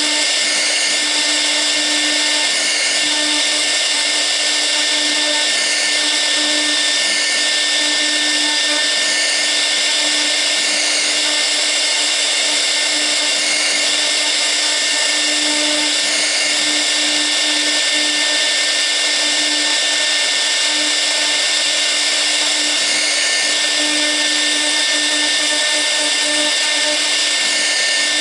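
6 kW air-cooled spindle of a 1325 CNC router running at speed with a steady high whine as a V-bit carves the workpiece. The high part of the sound dips briefly every few seconds.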